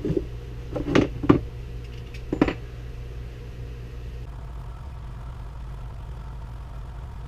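Four sharp metal knocks and clicks in the first two and a half seconds, from hands and tools working on a differential during a gear contact-pattern test, over a steady low hum.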